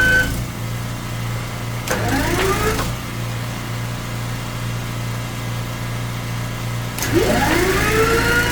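A steady low engine hum, with a motor whine over it that rises in pitch as the motor spins up and then holds steady. The whine cuts out just after the start, spins up briefly around two seconds in, and spins up again and keeps running from about seven seconds in.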